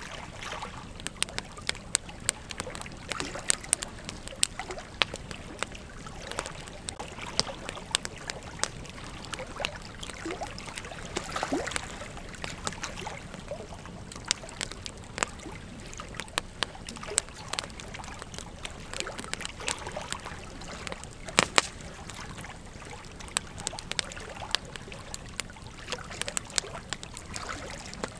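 Wood campfire burning and crackling, with frequent irregular sharp pops over a steady hiss; one pop about twenty-one seconds in is louder than the rest.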